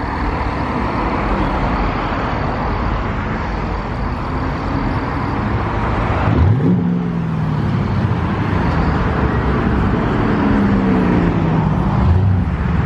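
A car engine with a loud exhaust, thought to be straight-piped, approaches and accelerates: the revs climb sharply about halfway through, ease down, then climb again near the end.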